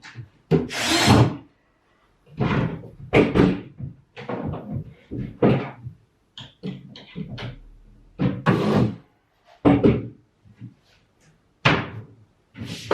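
A series of irregular thuds, knocks and bangs, about a dozen in all, from flat-pack wardrobe panels and doors being handled and fitted together during assembly.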